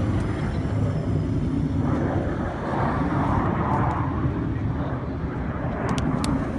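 Jet aircraft engines running with a steady low rumble, and a few sharp clicks near the end.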